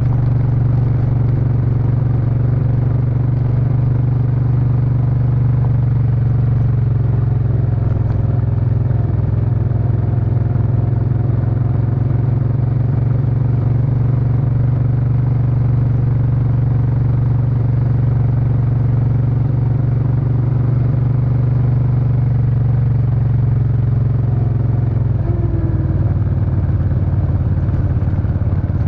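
Suzuki Intruder VS800 V-twin engine and exhaust running steadily under way. Near the end the engine note changes pitch.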